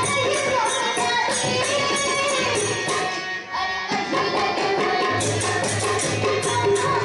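Marathi devotional bhajan sung by a girls' group, accompanied by tabla and small hand cymbals keeping a steady beat. The music thins out briefly about halfway through, then picks up again.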